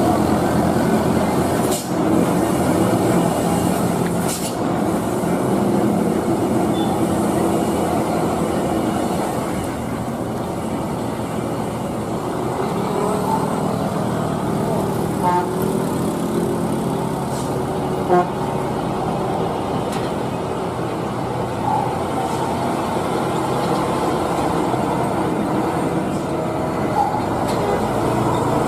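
Heavy truck's diesel engine running steadily under load on a steep climb, with other road traffic, a few faint short sharp sounds about halfway through.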